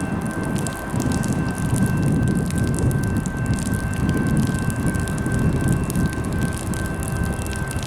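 Freight train rolling past close by, a steady low rumble with scattered crackle and a thin, steady high-pitched tone held throughout.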